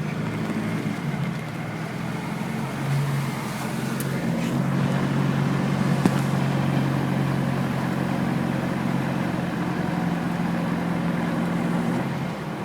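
A vehicle's engine running steadily at low revs while it drives through deep flood water, heard from on board, with a steady rush of water pushed aside by the vehicle's bow wave.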